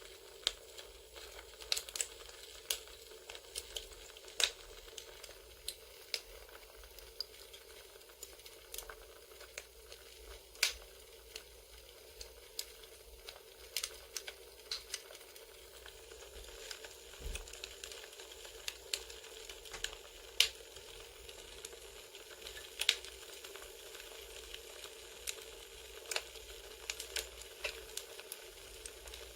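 Campfire ambience: a wood fire crackling, with irregular sharp pops and snaps over a steady soft hiss.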